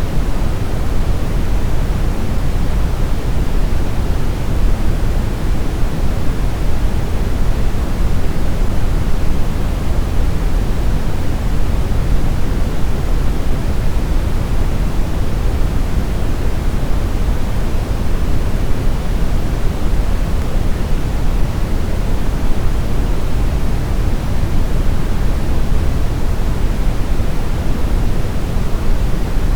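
Continuous brown noise: a steady, even hiss-like rumble weighted toward the low end, with no tones or events.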